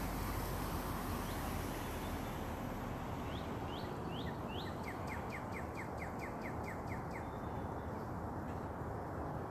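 A songbird sings over a steady background rush. It gives four rising whistled notes, then a quick run of about a dozen short, even notes, roughly four a second, which stops about two-thirds of the way through.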